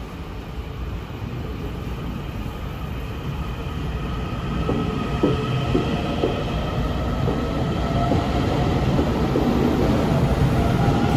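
Taiwan Railway EMU900 electric multiple unit pulling out and picking up speed: a rumble that grows steadily louder, with a motor whine that slowly rises in pitch. A few sharp clicks of wheels over rail joints come about five to six seconds in.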